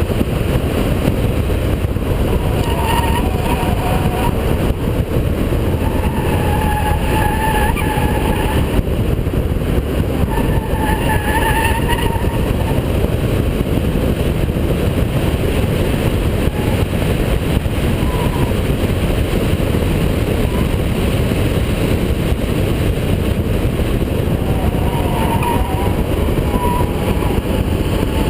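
Holden VP Commodore's 3.8-litre V6 running hard at speed, a loud, steady engine and road noise. Short squealing tones, most likely the tyres in corners, come and go four times.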